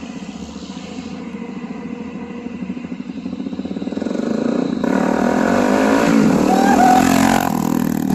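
2022 Kawasaki KLR650 single-cylinder engine running through an aftermarket exhaust, its exhaust note getting louder and rising in pitch as it revs up, then falling off suddenly about seven seconds in and carrying on at a lower pitch.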